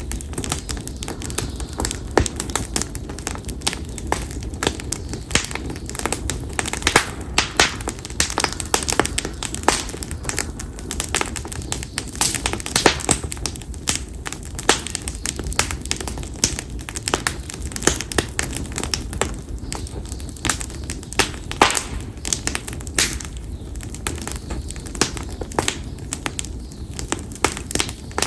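Campfire of split konara oak (Quercus serrata) logs burning, crackling and popping with many sharp, irregular snaps over a low steady rush of flame.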